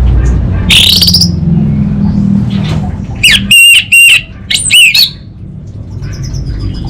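Orange-headed thrush singing loudly: a rising note about a second in, then a quick run of four looping whistled notes around the middle, over a low steady background rumble.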